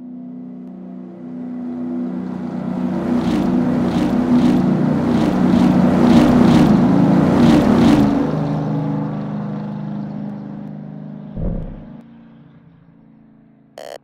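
Car engine sound effect: a low, steady engine hum swells into a loud rush with a quick run of sharp ticks, then dies away, with a single low thump near the end.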